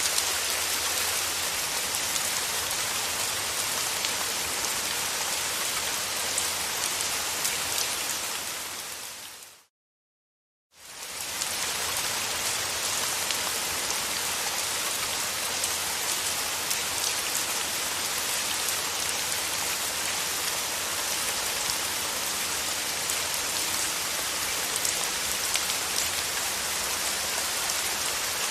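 Steady rain falling, an even patter of drops. About a third of the way in it fades out to a second of complete silence, then fades back in and continues as before.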